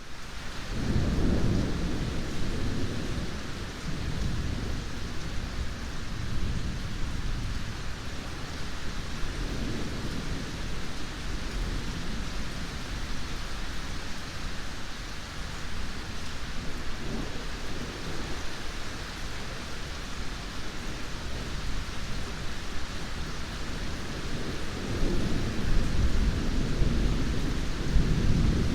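Steady heavy rain with rolling thunder. The low rumbles swell in the first few seconds, come back faintly twice in the middle, and grow again near the end.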